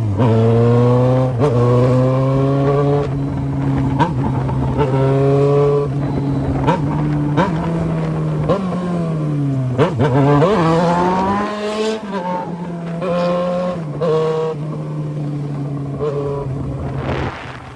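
Yamaha XJ6's inline-four engine through a 3-inch exhaust, pulling hard through the gears: the revs climb and drop at each upshift, several times over. Near the middle the revs fall away and climb again, and the engine runs quieter toward the end.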